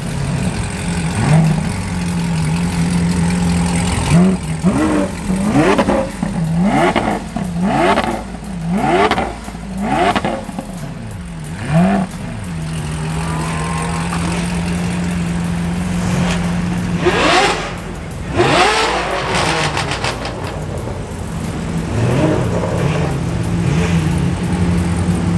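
A high-performance car engine revved over and over in quick blips, about one every second, dropping back to a steady idle between them. After a few seconds of idle comes one bigger, longer rev, then a few lighter blips near the end.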